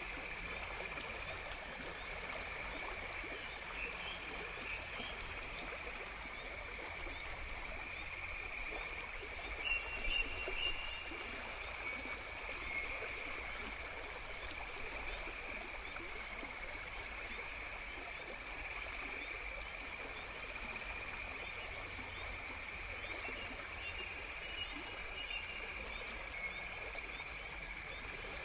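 Insect chorus: crickets trilling steadily in several high-pitched bands, with a short burst of pulsed chirping about ten seconds in.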